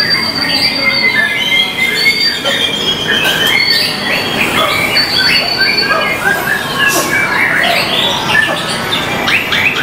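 White-rumped shama (murai batu) singing a loud, varied song: long held whistles mixed with quick chattering notes and short glides.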